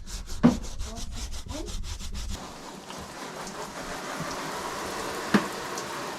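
Quick rhythmic scrubbing of a car seat's foam cushion with shampoo, then, about two seconds in, a steady hiss of running water with one sharp knock near the end.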